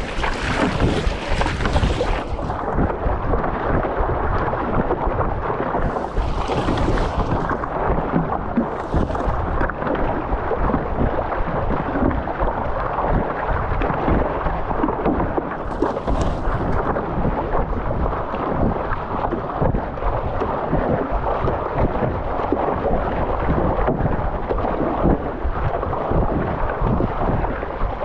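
Wind buffeting the microphone over choppy water as a stand-up paddleboard is paddled: a loud, steady rumble, with a few brief hisses.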